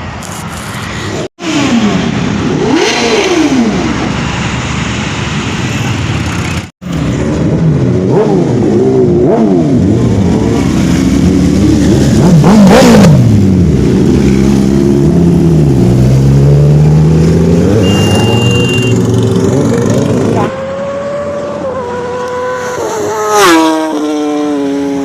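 Superbike engines revving hard on fly-bys, their pitch sweeping up and down as the bikes pass, several engines overlapping at times. The sound cuts out abruptly twice in the first seven seconds. Near the end a single engine's pitch steps down and falls.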